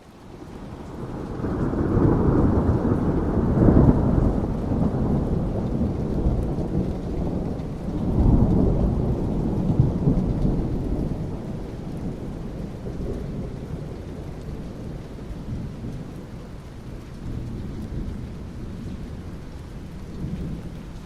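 Thunder rumbling over steady rain. The rumble swells in over the first two seconds, peaks around four seconds, rolls up again around eight to ten seconds, then slowly dies away.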